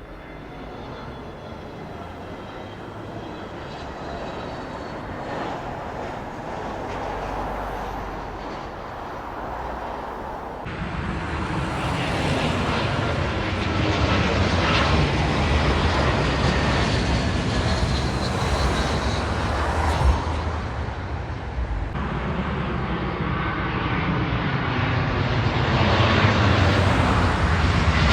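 Jet airliner engines on approach to land, growing steadily louder as the aircraft comes nearer.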